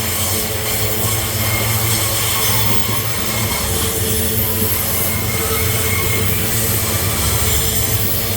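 Freight train wagons rolling past with a steady low rumble, their wheels squealing on the rails in thin high tones that come and go.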